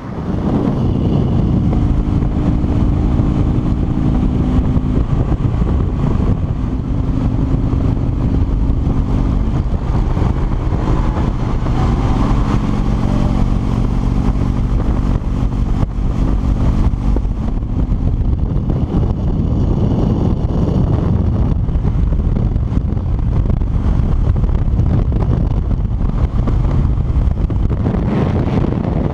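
Harley-Davidson V-twin motorcycle engine running steadily at highway cruising speed, with wind rushing past.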